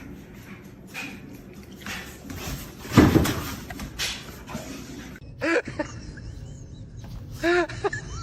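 A loud thump about three seconds in, then short high-pitched animal cries in quick runs of three or four near the end.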